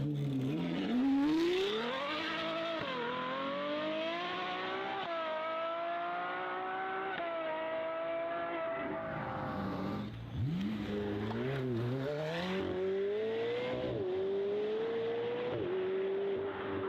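Car engine accelerating hard through the gears: its pitch climbs and drops back at each upshift. Revs fall away about ten seconds in, then a second hard run climbs from low revs with several more quick upshifts.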